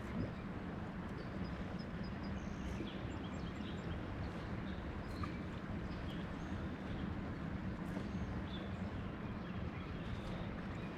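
Steady rushing noise of moving river water, with faint bird chirps scattered over it.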